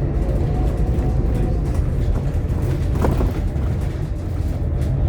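Scania K230UB OmniLink bus's five-cylinder diesel engine running with a steady low drone, heard from inside the passenger cabin.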